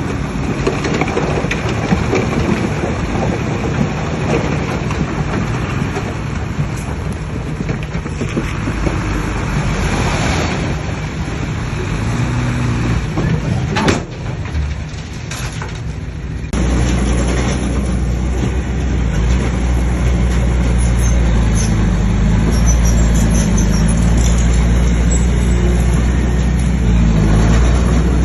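Heavy diesel earthmoving machinery working, its engine running under load. About halfway through the sound changes abruptly to a louder, deeper, steadier engine drone.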